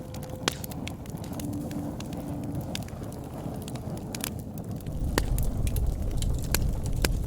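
Campfire crackling: sharp pops at irregular intervals over a low rumble, which grows louder about five seconds in.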